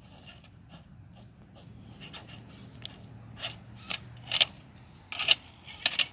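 Axial SCX10 II radio-controlled rock crawler crawling: a steady low hum of motor and gears under a run of sharp clicks and scrapes from the truck working over the ground. The clicks grow louder, with the sharpest cracks about four and a half seconds in, just after five seconds and near the end.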